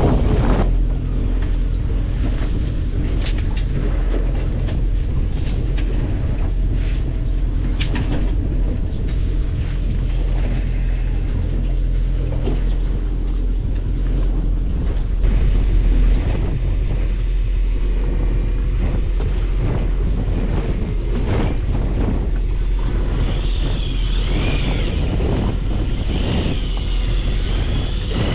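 Fishing boat's engine running steadily, with scattered knocks and wind on the microphone. Wavering high tones come in over the last few seconds.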